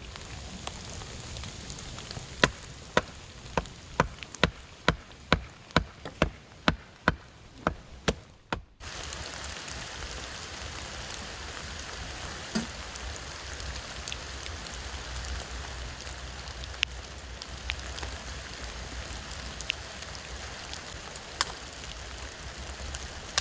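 Steady rain, with a fast run of about fourteen sharp knocks, a little over two a second, in the first third. After a sudden break the rain goes on, with an odd louder drip or click.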